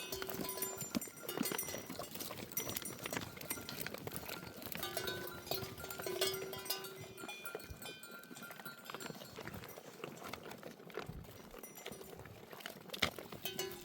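A flock of livestock, likely sheep, moving with bells clinking and many small hoof clicks.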